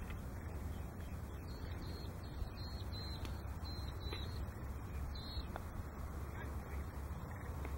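Steady low wind rumble on the microphone, with a bird calling a quick run of short high notes from about a second and a half in for a few seconds, and once more a little past the middle.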